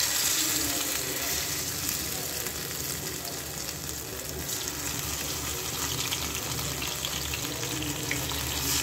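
Marinated chicken kebab pieces sizzling as they deep-fry in hot oil in a pan. The sizzle is loudest in the first second as the pieces go in, then runs steadily with scattered small pops.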